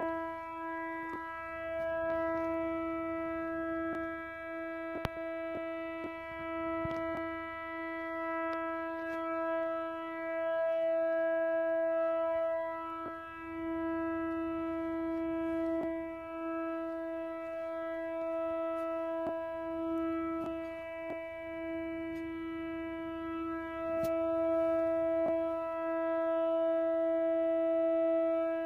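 A steady, horn-like drone held on one unchanging pitch with strong overtones, swelling and fading in loudness but never stopping, with a few faint clicks over it. This is a trumpet-like 'strange sky noise' of unknown origin.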